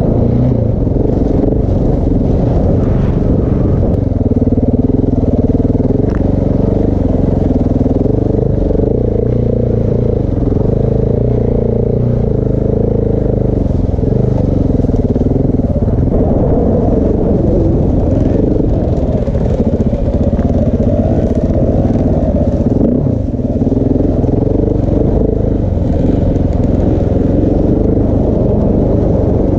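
KTM 690 Enduro R's single-cylinder four-stroke engine, fitted with a Wings exhaust, pulling the bike along a slow, slippery trail. The revs rise and fall continually as the throttle is worked, over a steady low rumble and light clatter.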